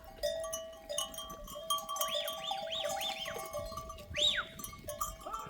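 A herd of goats bleating, a quick run of short calls about two seconds in and another a little after four seconds, over the steady ringing of their neck bells.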